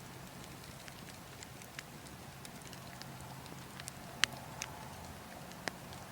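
Wood fire crackling, with a few sharp pops, the loudest about four seconds in, over a steady low wind rumble.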